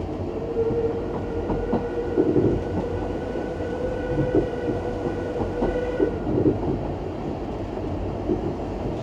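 Steam railway train running: a steady rumble with irregular clicks from the wheels over the rail joints. A single held tone sounds from near the start for about five and a half seconds, then stops.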